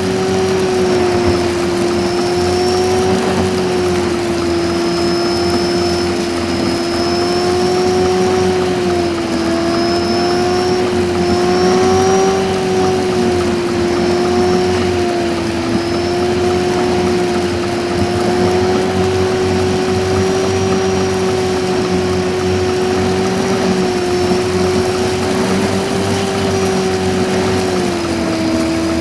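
1994 Renault Laguna 1.8 8-valve four-cylinder engine and road noise while driving, played back five times fast, so the engine is a steady high-pitched drone. The pitch wavers a little throughout and drops slightly near the end.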